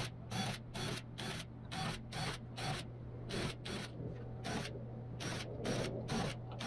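Quick, short rubbing strokes on wood, about two a second, with a steady low hum underneath.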